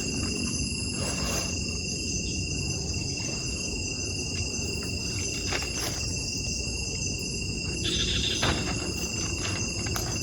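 A night chorus of insects such as crickets, a steady high-pitched trilling at several pitches at once, over a steady low background noise, with a few faint clicks.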